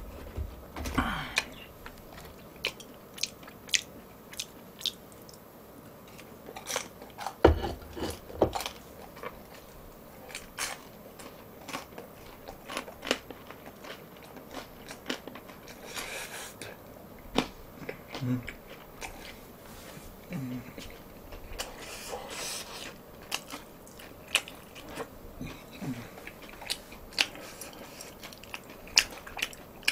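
Close-up eating sounds: intermittent crunchy chewing of battered, fried tangsuyuk pork, with scattered sharp clicks of chopsticks against the dishes.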